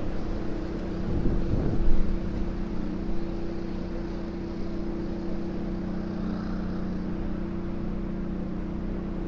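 A steady engine drone with a constant low hum over a rushing background noise. Wind buffets the microphone in the first two seconds.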